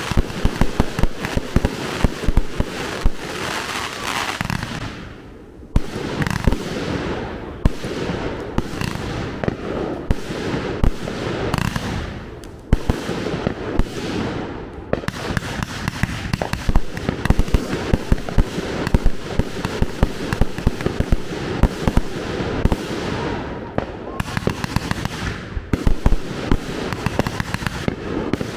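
Fireworks finale: a dense, rapid barrage of bangs and crackles from many shells going off almost without a break, with brief lulls about five and twelve seconds in.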